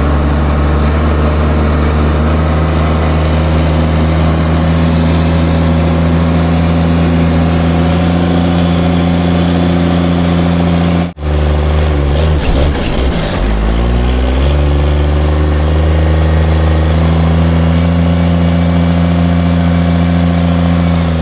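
Heavy truck's engine running steadily under way. After a sudden break about halfway, the engine note drops and then climbs back up over a few seconds.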